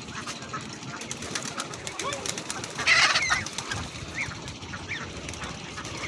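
Birds calling outdoors: a few short chirps and one louder call about three seconds in, over steady outdoor background.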